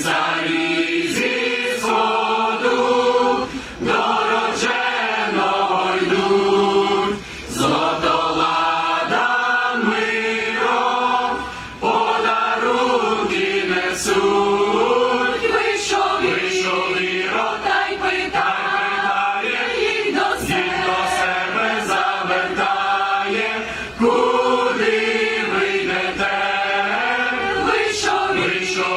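A choir singing a Ukrainian Christmas carol (koliadka), in phrases of a few seconds with short breaks for breath between them.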